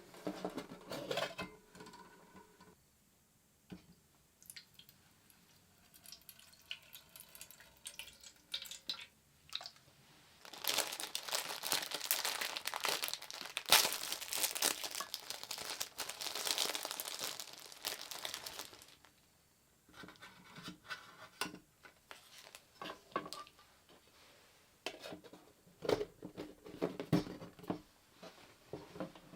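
Crinkly wrapping being handled and crumpled, in short rustles and clicks, with a long stretch of steady crinkling in the middle that is the loudest part.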